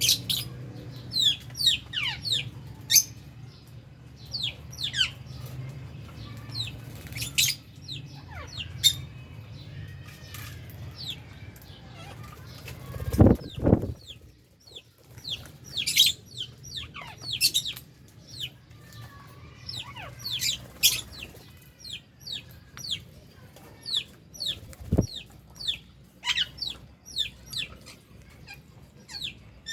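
A flock of lovebirds and budgies chirping: many short, high-pitched calls that sweep downward, overlapping all through. There is a loud low thump about thirteen seconds in and a smaller one near twenty-five seconds.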